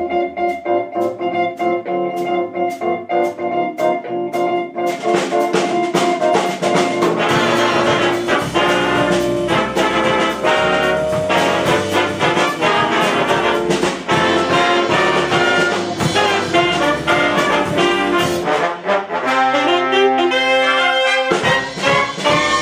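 Jazz big band playing: the brass holds chords over a steady cymbal beat, then the full band comes in louder about five seconds in and plays on to a final chord near the end.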